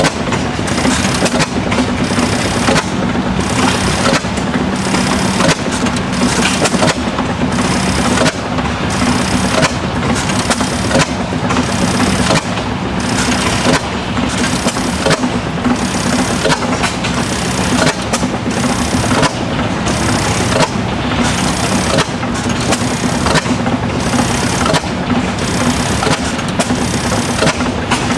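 1900 12 HP Reid oil field engine running steadily, with an even beat of about three strokes every two seconds over a steady low hum.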